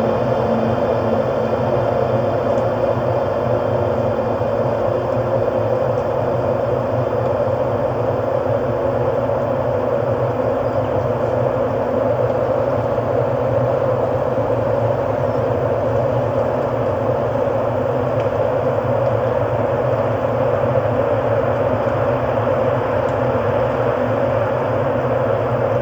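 Ambient music: a steady synthesized drone of held tones under a soft hiss, with no beat.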